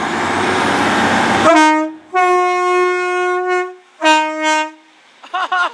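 Class 150 diesel multiple unit pulling out: a loud rush of engine and rail noise for about the first second and a half, then the two-tone horn sounds a short low note, a long high note and a low note again.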